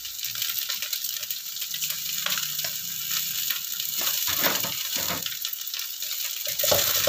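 Stir-fried rice vermicelli with vegetables sizzling in a hot wok, a steady frying hiss. A few short spatula sounds come in from about four seconds in.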